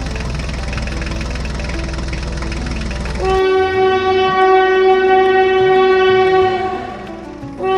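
A vehicle engine running with a low rumble, then about a third of the way in a loud steady horn blast cuts in and is held for about three seconds before fading out, starting again right at the end.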